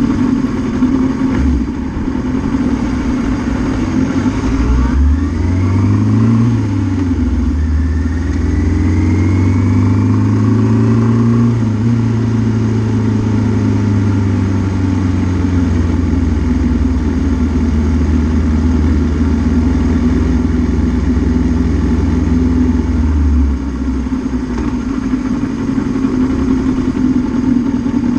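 Suzuki GS650G's air-cooled inline-four engine idling, then rising in revs about five seconds in and held at raised revs for over fifteen seconds before dropping back to idle near the end.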